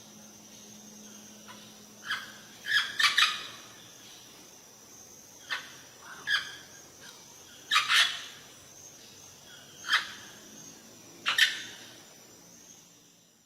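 A bird giving short, sharp calls, about ten of them at irregular intervals, some single and some in quick runs of two or three.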